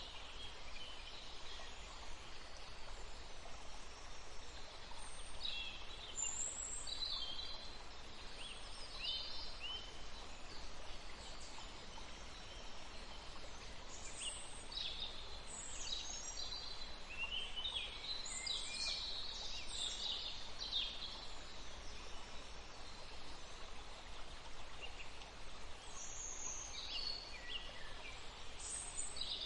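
Steady flowing water, with small songbirds chirping in short scattered bursts over it, busiest in the middle and again near the end.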